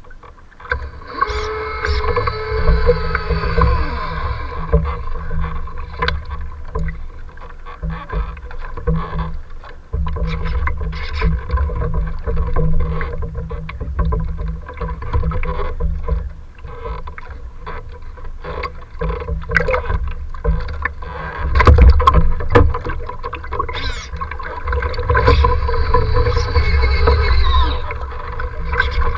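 Strong wind buffeting the microphone in gusts, with choppy waves splashing. Whining tones slide up and down about a second in and again near the end.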